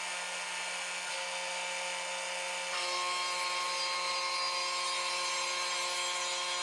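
Stepcraft M500 desktop CNC router spinning a 1/4-inch downcut end mill as it skims the sawn surface of Bolivian rosewood, the gantry jogged by hand. A steady whine over a cutting hiss, getting a little louder with more whining tones from about three seconds in.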